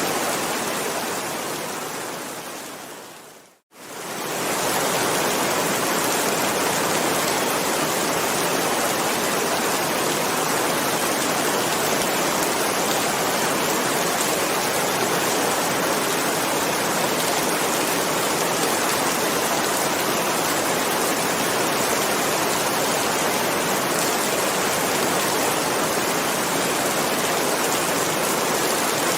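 Steady heavy rain. About three and a half seconds in it fades out to a moment of silence and then fades back in, like the seam of a looped recording.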